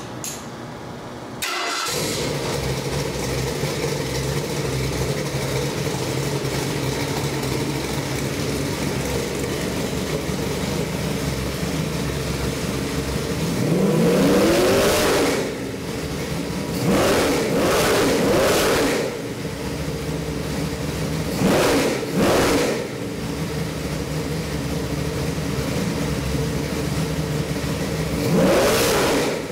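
Ford 347 stroker small-block V8 (425 hp) starting about a second and a half in, then idling steadily on a test stand. It is revved four times in the second half, each a short rise in pitch and loudness before dropping back to idle.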